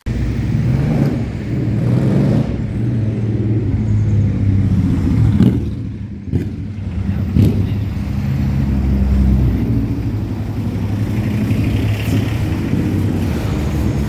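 A motor vehicle's engine running close by: a steady low rumble, with a few short knocks in the middle.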